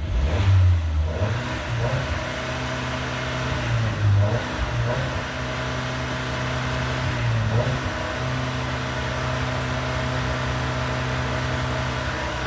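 Car engine running at idle, blipped to brief revs three times: just after the start, about four seconds in, and about seven and a half seconds in, each time settling back to a steady idle.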